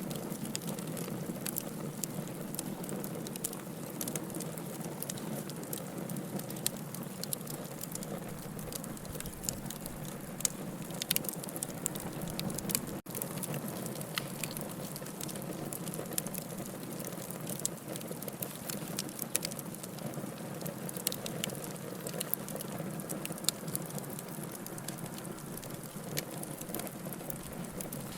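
Wood campfire burning: a steady low rush of flame with frequent sharp crackles and pops from the wood throughout.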